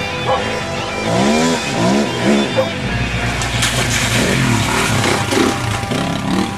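Motocross bike engines revving, the pitch climbing and falling repeatedly.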